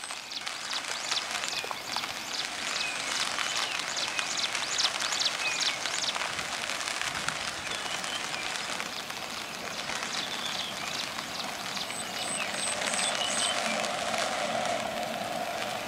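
Steady hiss of rain with scattered short bird chirps. Near the end a low drone from the approaching pair of ALCo diesel locomotives grows louder.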